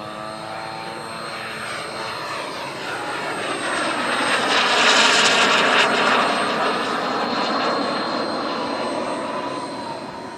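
Radio-controlled BAE Hawk model jet's small gas turbine on a flypast: the rushing jet noise with a high steady whine builds to its loudest about five seconds in and then fades as the model passes and goes away.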